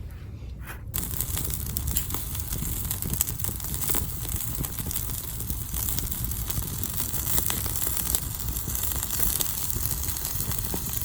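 Wood campfire crackling and popping, with many quick sharp snaps over a steady low rumble, starting about a second in.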